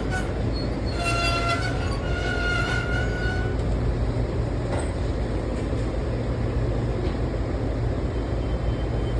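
Washington Metro train at a station platform: a steady low rumble and hiss, with a few short high-pitched tones about one to three seconds in.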